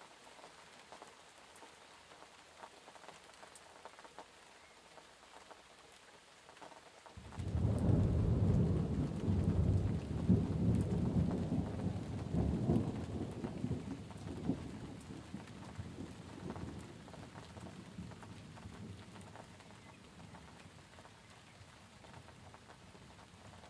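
Steady rain falling, with a roll of thunder that breaks in suddenly about a third of the way through, rumbles loudly for several seconds and slowly dies away.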